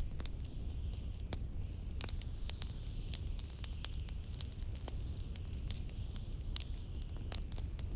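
Wood fire crackling in a fireplace, with many small irregular pops, over a steady low rumble of blizzard wind.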